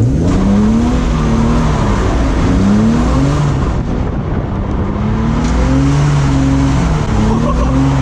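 BMW E36's engine revved hard in a drift, its pitch climbing and dropping over and over as the throttle is worked, over constant tyre and road noise.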